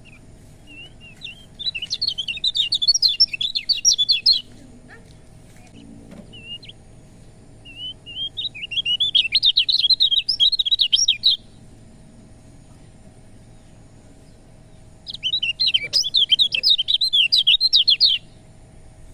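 Kecial kuning, a white-eye, singing three bursts of rapid, high chattering song about three seconds long each, with a few short single chirps in the gaps between them.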